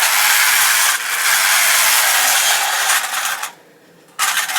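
Technofix tinplate toy train running on its track with a steady metallic rattling whirr. It cuts off abruptly about three and a half seconds in, then starts again with clicks just before the end.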